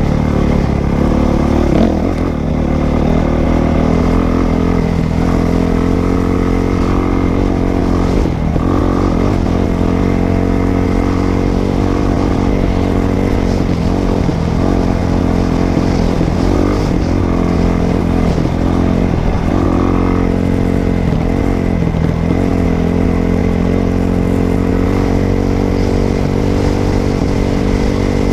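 Dirt bike engine running under way, holding a fairly steady speed with small rises and dips in pitch.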